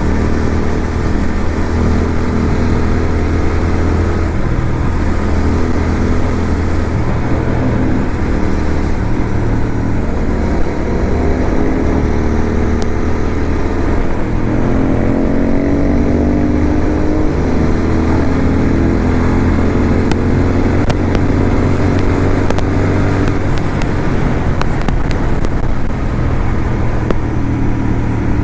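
Motorcycle engine running while the bike is ridden, steady for long stretches, with its pitch rising in the middle as it accelerates.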